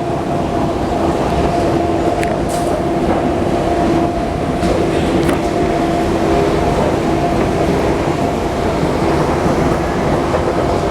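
Metro train running in the station: a loud, steady rumble with a steady two-note hum over it.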